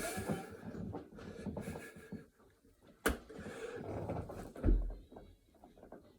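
Heavy, labored breathing from a man mid-burpee set, with a sharp slap about three seconds in and a low thump just before five seconds, typical of hands or body meeting the floor.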